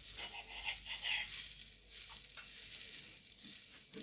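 Cabbage pancake sizzling as it fries in a pan: a steady, high crackling hiss with a few light clicks.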